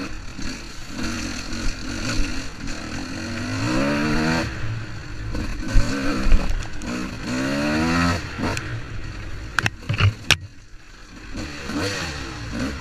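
Dirt bike engine running, revving up twice with its pitch climbing, and a few sharp clicks near the end.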